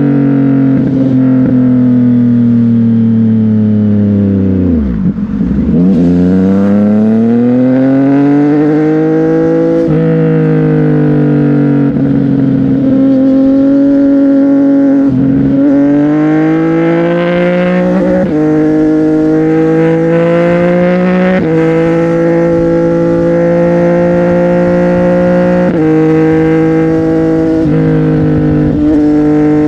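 CFMOTO 675NK three-cylinder engine through an aftermarket Burnout titanium exhaust, ridden on the road: it slows over the first few seconds, then pulls hard with the pitch climbing and dropping sharply at each gear change, several times.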